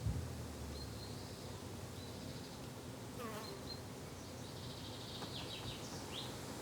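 Insects buzzing steadily in a garden, with birds chirping now and then, including one call that falls in pitch about three seconds in. A brief low thump right at the start.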